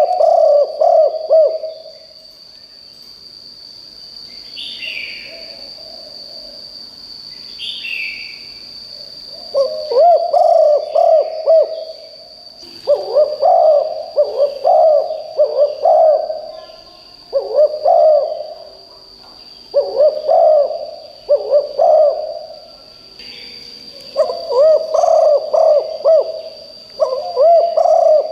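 Spotted dove cooing loudly in repeated phrases of several notes each, seven phrases with short pauses between them. Several brief, higher calls from another bird come in the first quiet gap.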